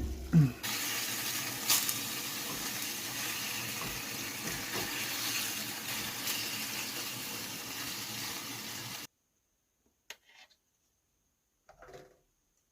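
Food sizzling in a pan on a camp stove: a steady hiss with a few small crackles, which cuts off suddenly about nine seconds in. Then near silence with two faint clicks.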